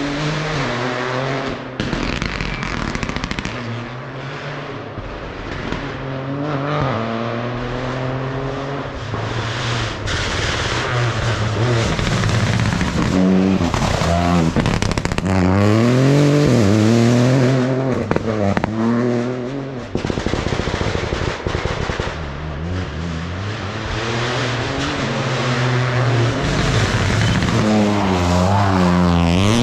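Rally car engines on a special stage, revving hard with pitch repeatedly climbing and dropping as they change gear and lift off for corners. Loudest about halfway through, building again near the end as a car draws close.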